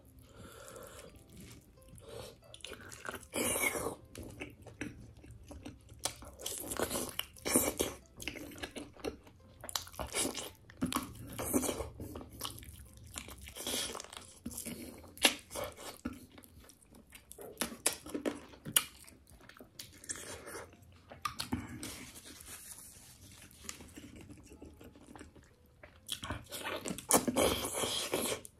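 Close-miked chewing and biting as a person eats curried chicken pieces on the bone by hand: irregular wet clicks and crunches, with a busier flurry of bites near the end.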